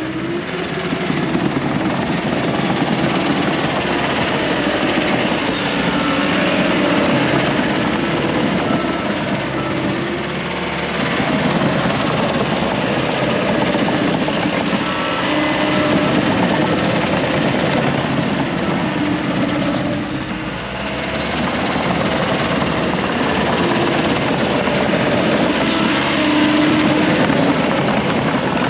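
John Deere 650K crawler bulldozer's diesel engine running under load as it works dirt, the engine note rising and falling. It eases off briefly about twenty seconds in, then picks back up.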